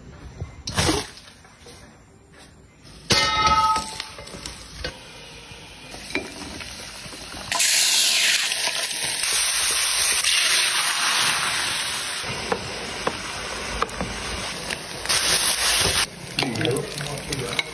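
Food frying and sizzling in hot oil in a pan while it is stirred. A metal utensil clanks against the pan about three seconds in, and the loud sizzle starts suddenly about halfway through, as food goes into the oil.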